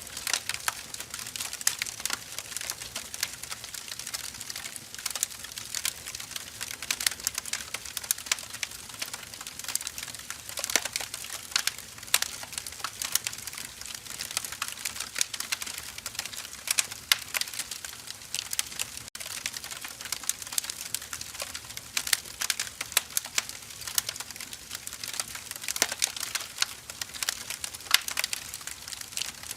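Firewood burning, crackling without pause: many small, irregular sharp pops over a soft hiss.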